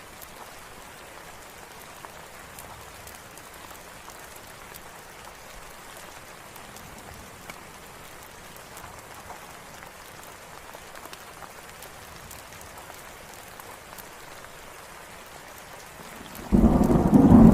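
Steady rain with scattered faint drop ticks, then a loud rumble of thunder breaks in suddenly about a second before the end.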